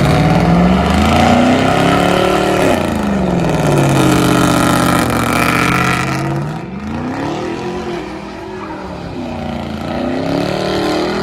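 A car engine revving: its pitch climbs, drops back, holds steady for a few seconds, then rises and falls again twice.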